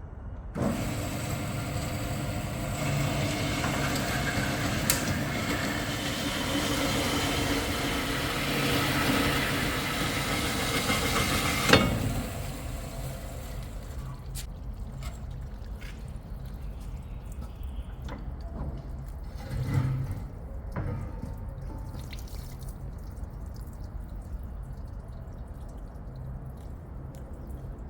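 Workshop machinery runs steadily for about eleven seconds and stops with a sharp clack. After that come quieter scattered knocks and clanks.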